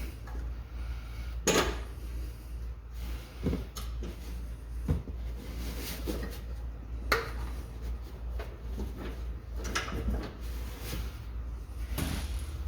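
Scattered metal knocks and clunks from the stock exhaust muffler and its hangers being worked loose, with two louder knocks about a second and a half in and about seven seconds in. A steady low hum runs beneath.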